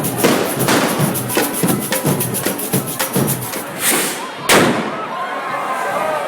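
A banger goes off with a single sharp, loud bang about four and a half seconds in. Before it there is a fast, even rattling rhythm amid procession crowd noise, and voices follow the bang.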